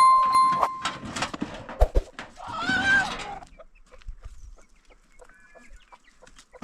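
Chickens clucking, with one hen giving a louder wavering call about three seconds in, among scattered clicks. A clear ringing note sounds for about a second at the start.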